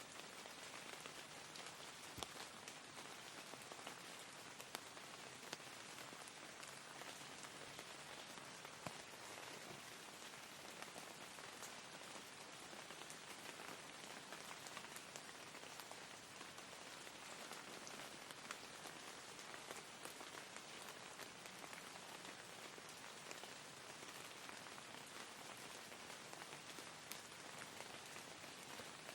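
Steady, soft rain falling, an even hiss with a few louder single drop ticks.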